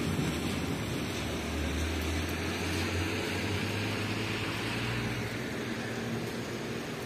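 Wet-street ambience in heavy rain: a steady hiss, with a low rumble that swells in the middle and fades about five seconds in.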